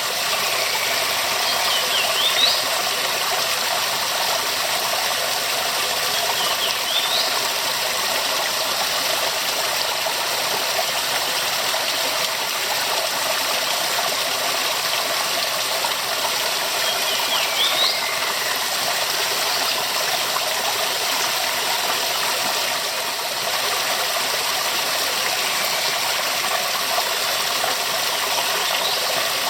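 Waterfall rushing steadily, a dense, unbroken sound of falling water. A few faint, short rising chirps sound over it now and then.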